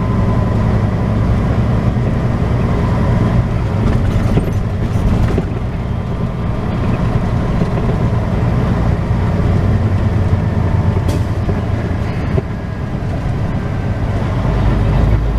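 Semi truck's diesel engine droning steadily from inside the cab while driving, heard mostly as a low hum with road noise.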